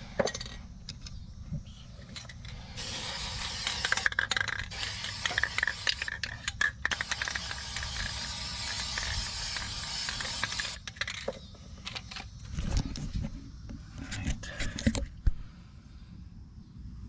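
Paint spraying with a steady hiss for about eight seconds, broken by a couple of brief pauses. Scattered metallic clinks and knocks come before and after the spraying.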